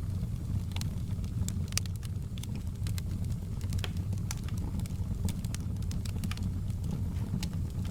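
Campfire burning with a steady low rumble and frequent irregular sharp crackles and pops from the burning wood.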